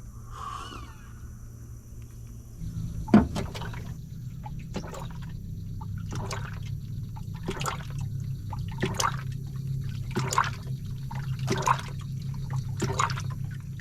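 Drip coffee maker brewing a pot, gurgling and spitting in short bursts about every second and a half. A steady low hum comes on with a sharp click about three seconds in.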